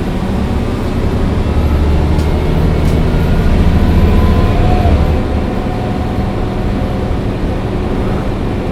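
Mercedes-Benz O405 N1 low-floor city bus running, heard from inside the passenger cabin: the diesel engine drones under load, growing louder, then eases off about five seconds in.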